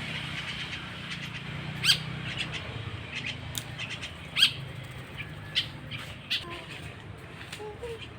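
Young starling (jalak) chick giving short, sharp chirping calls, scattered one or two at a time, the loudest about two seconds in and again just after four seconds.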